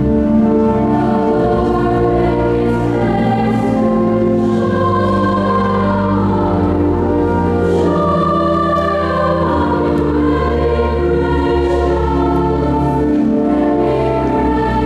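Choir singing sustained chords in a slow sacred-style piece, with long steady low notes held beneath the voices.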